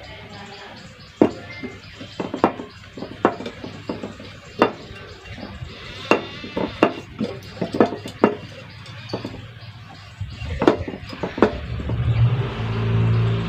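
Irregular sharp metallic clinks and knocks, about one or two a second, like metal parts or tools being handled. Near the end a low rumble swells in.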